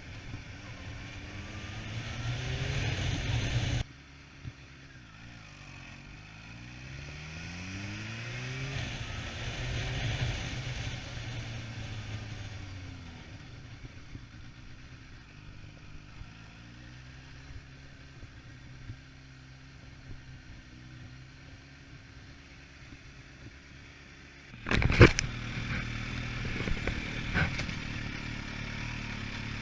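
Kawasaki H2 SX's supercharged inline-four engine running. Its pitch and loudness rise until it cuts off sharply about four seconds in. The pitch then climbs and falls several times with the throttle before it settles to a steady running note. A loud sharp clunk comes about 25 seconds in.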